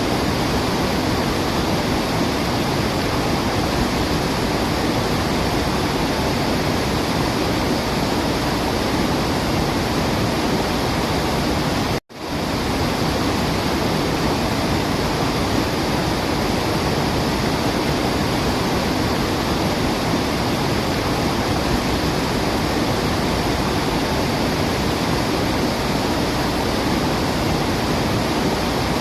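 Waterfall rushing steadily. It cuts out for an instant about twelve seconds in and quickly swells back.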